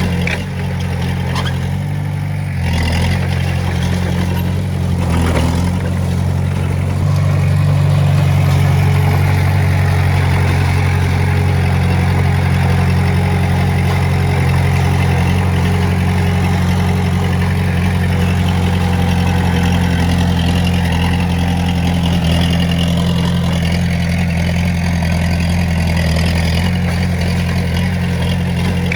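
Diesel engine of heavy earthmoving equipment running steadily, working harder and louder from about seven seconds in, with a few short knocks in the first six seconds.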